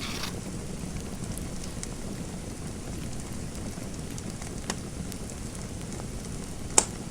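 Fireplace fire burning with a steady low hiss and a couple of sharp pops, the loudest about a second before the end.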